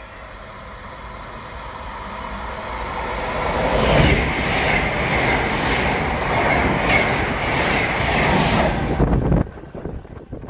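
Intercity train with white coaches approaching and passing at speed, building up over the first few seconds, then the coaches rushing past with a regular repeating beat. The sound cuts off suddenly near the end.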